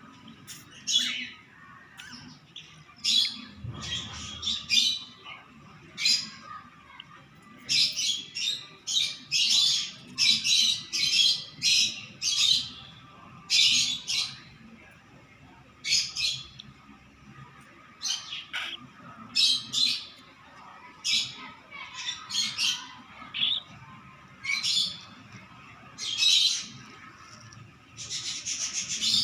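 Baby cockatiel squawking: short, high, harsh calls repeated about one or two a second, bunched most tightly in the middle.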